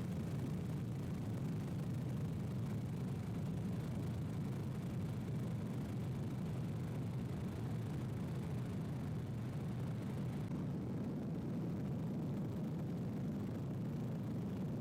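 Helicopter in flight, a steady low rumble that does not change.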